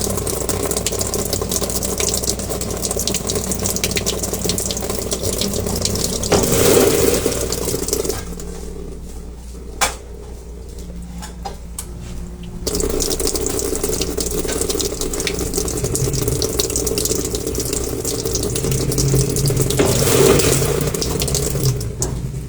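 Whirlpool Xpert System top-load washing machine running with water rushing in the tub over a low steady hum. The rushing comes in two long spells with a quieter pause of about four seconds between them, broken by a few sharp clicks.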